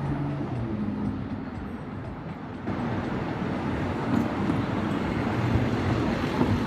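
Steady city street ambience with a low rumble of traffic; the sound steps up abruptly, a little louder and fuller, about two and a half seconds in.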